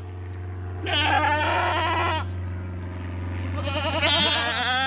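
Boer goats bleating: two long, quavering bleats, one about a second in and another starting about three and a half seconds in, over a steady low hum.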